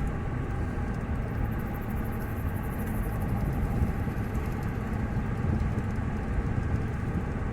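Car driving along a road, a steady rumble of engine and tyres heard from inside the cabin.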